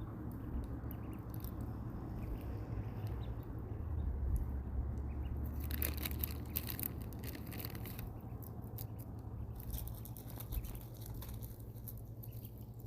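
Ducklings pecking and nibbling at pieces of cabbage, small crunching and clicking sounds, busiest about six to seven seconds in, over a steady low hum.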